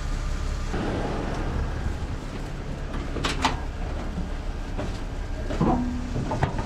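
An engine idling steadily, with a few sharp metallic clicks and knocks over it, two close together about halfway through and another near the end.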